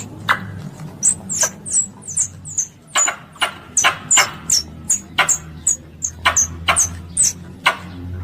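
Squirrel calling: a rapid, irregular run of short, sharp, high-pitched chirps, about two a second, over a faint low hum.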